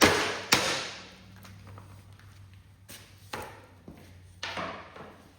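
Sharp knocks and bangs on a stuck garden-tractor steering wheel as it is worked loose from its shaft: two loud strikes in the first second, then a few lighter knocks.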